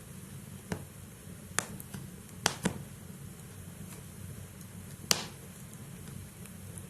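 Wood fire burning in a fireplace: a steady low rumble of the flames with about five sharp crackling pops from the burning logs, two of them close together about two and a half seconds in.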